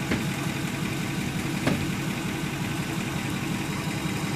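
Engine idling steadily, with two short clicks, one at the start and one about a second and a half in.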